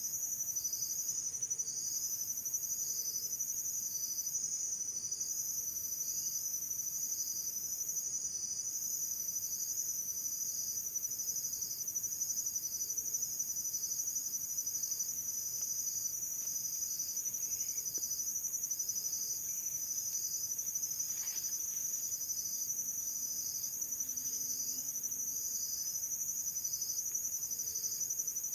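Insects, likely crickets, trilling in a steady chorus, with a shorter chirp repeating about every second and a half.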